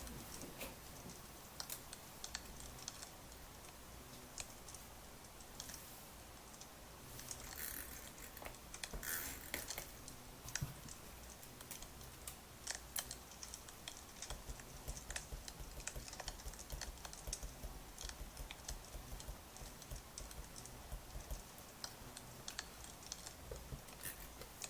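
Burning firewood crackling, with many small irregular pops and clicks over a faint hiss, and a few brief rustling bursts about eight to ten seconds in.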